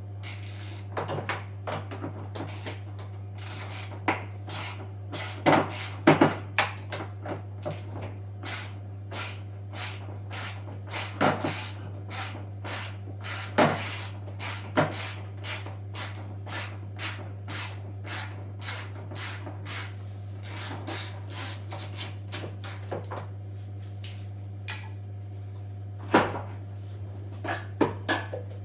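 Clicks and knocks of tools and parts being worked on a washing machine's shock absorber mounts, with a few loud knocks and a long run of fairly even clicks, about two a second, over a steady low hum.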